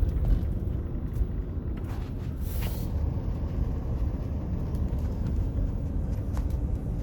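Vehicle driving, heard from inside: a steady low rumble of engine and road noise, with a short hiss about two and a half seconds in.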